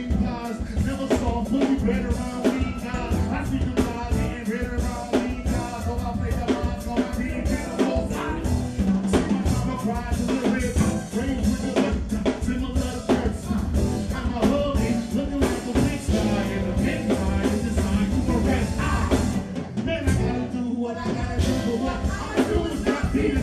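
Live band music with singing over a steady drum beat; the bass and drums thin out briefly near the end.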